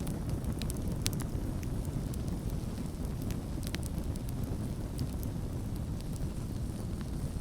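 Campfire burning, a steady low rumble of flames with sharp crackles and pops of burning wood scattered through it, most of them in the first second or so.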